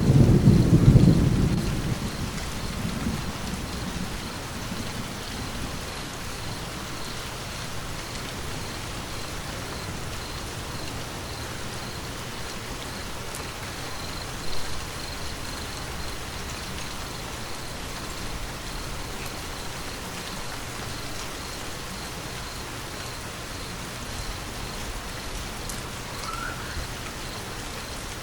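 Steady rain falling, with a low thunder rumble at the start that fades away over the first few seconds. There is one short louder spot about halfway through.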